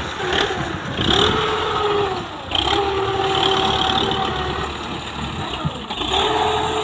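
Belarus tractor's diesel engine revving up several times, its pitch rising at each rev and then holding steady before dropping back.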